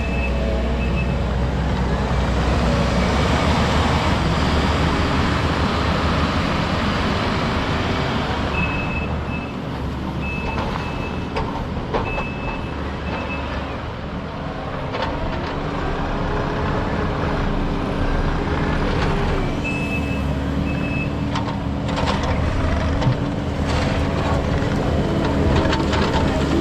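Heavy vehicle's engine running and changing speed, with a backup alarm beeping in several short runs.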